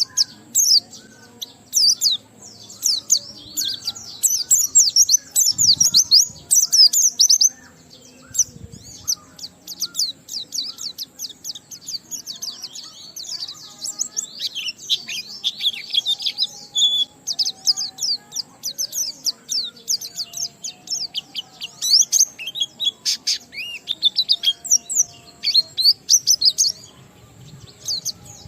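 White-eye (pleci) singing a long run of rapid, high twittering chirps and trills, the continuous 'ngalas' song, with mimicked phrases worked in.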